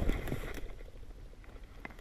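Footsteps crunching through dry vegetation, a few crackling steps that stop within the first half second, leaving a faint low rumble of wind on the microphone.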